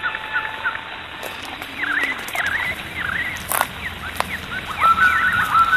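Birds calling: a run of short chirping notes, then longer whistled notes with rising starts near the end. A single sharp click about three and a half seconds in.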